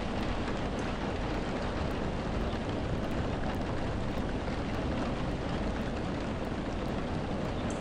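Steady rain falling: an even hiss with a deep rumble underneath and a few faint drop ticks.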